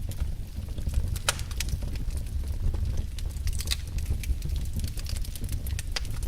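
Wood fire in a fireplace crackling: irregular sharp pops and snaps over a steady low rumble, with a louder pop about a second in.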